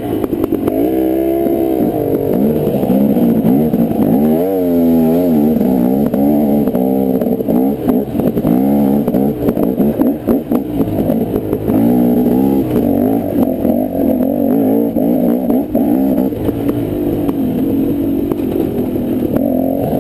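Dirt bike engine revving up and down again and again as it is ridden on a trail, with frequent clattering knocks.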